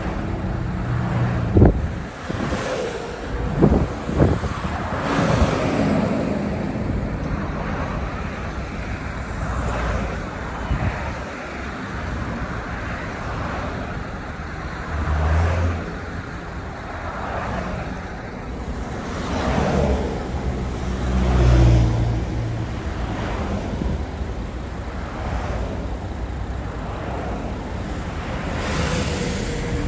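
Road traffic noise, with several vehicles swelling past and a few sharp knocks in the first few seconds.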